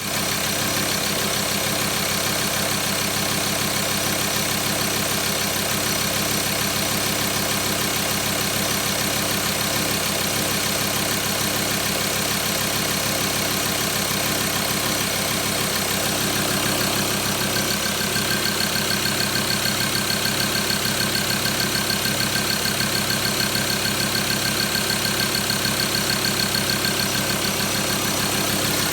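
Mazda BT-50 3.2-litre five-cylinder turbo-diesel engine idling steadily. A high, thin whine joins in about halfway through and carries on.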